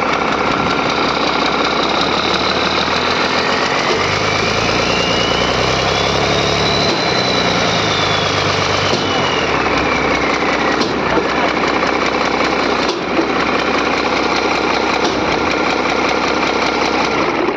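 Six-cylinder engine running, revved up and back down over the middle stretch, with a whine that rises and falls along with the revs.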